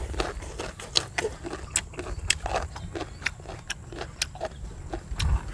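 Close-up chewing of crispy deep-fried fish: irregular sharp crunches and clicks, a few a second, over a low rumble, with a louder low thump near the end.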